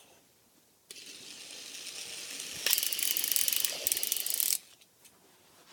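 Battery-powered Trackmaster toy train engines' motors and plastic gears running. The whir starts about a second in and grows, turns into a louder fast gear clatter about halfway through, and cuts off suddenly near the end.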